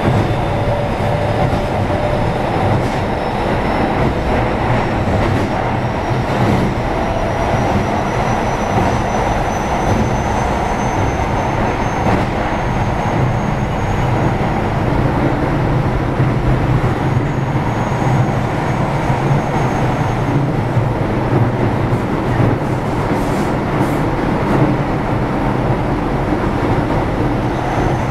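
Running noise of a Keio 7000 series electric train heard inside the car: a steady rumble of wheels on track. A faint high whine slowly rises in pitch over the first half, and a few short clicks come near the end.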